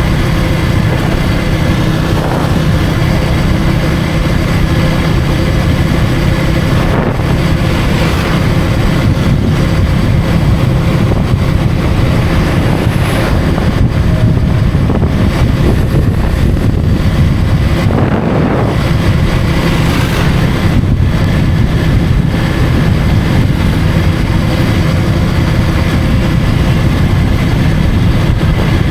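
KTM Duke 250 motorcycle's single-cylinder engine running at a steady cruise, with wind rushing over the microphone. The level stays even throughout, with a few brief swells of fuller noise.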